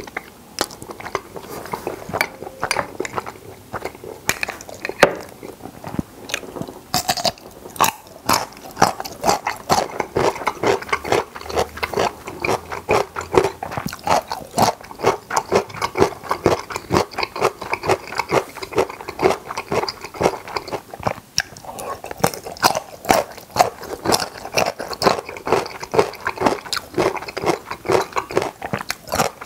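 Close-miked wet chewing and lip smacking, a steady rapid run of small clicks, from a person eating creamy carbonara spaghetti and sweet pickles.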